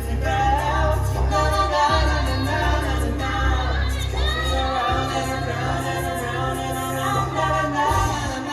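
A small choir singing a song in close harmony, with a steady low bass part underneath that drops out for a moment twice.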